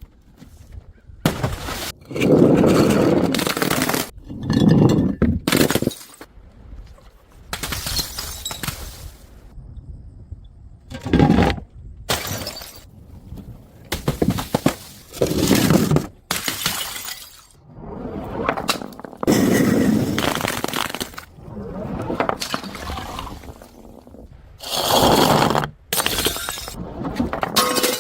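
Glass bottles smashing one after another: about a dozen separate shattering crashes, each followed by tinkling shards, with short gaps between them.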